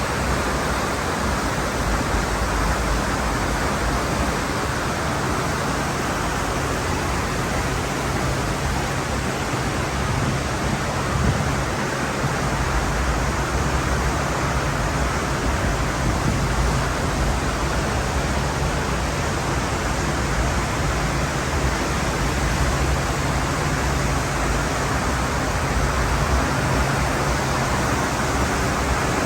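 Steady rushing of wind and water from a cruise ship under way at about 18 knots, with a faint low hum beneath.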